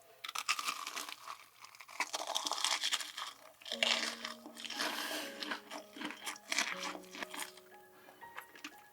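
Crisp crunching bites and chewing of a deep-fried hot dog with a crunchy Hot Cheetos coating, close to the microphone. Soft background music with held notes comes in about four seconds in, under the crunching.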